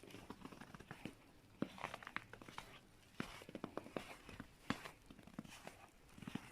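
Faint, irregular footsteps with crunching and rustling.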